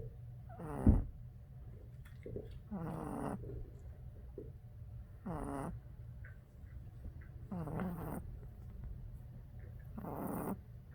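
Boston Terrier puppy snoring in its sleep: five pitched snores about two and a half seconds apart, each about half a second long and falling in pitch at the end. A sharp thump comes with the first snore, about a second in.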